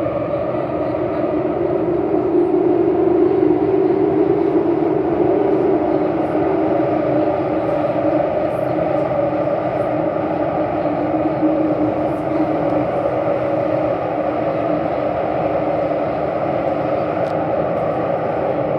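C951A metro train heard from inside the car while running between stations in a tunnel: a steady rumble and hum of wheels and traction motors, a little louder a few seconds in.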